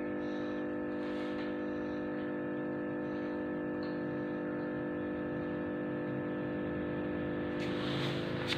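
A drill's motor running at a steady speed with an even hum, with rattling noise coming in near the end.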